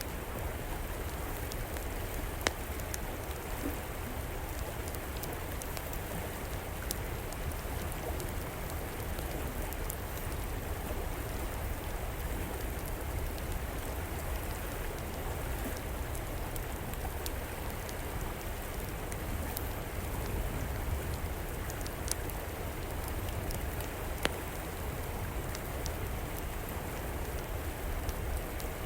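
Steady rushing of flowing river water, with the scattered small crackles and occasional sharper pops of a burning wood fire; the loudest pops come about two and a half seconds in and twice in the last third.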